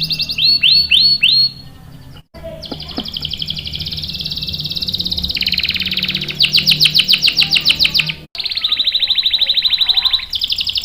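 Canary singing. Four quick down-slurred notes open the song, then it runs into long, fast rolling trills that change pitch every few seconds. The song breaks off sharply twice, about two seconds in and about eight seconds in.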